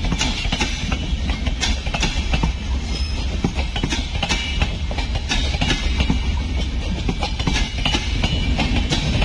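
Express train's passenger coaches rolling past on the adjacent track, a steady rumble with wheels clattering over the rail joints.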